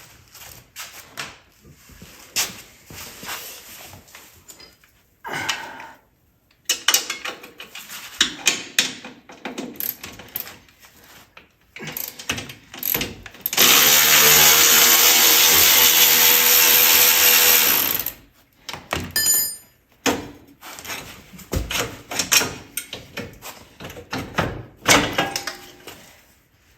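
Metal tools and parts clinking and knocking as an ATV is worked on, with a power tool, likely a drill or driver, running steadily for about four and a half seconds midway.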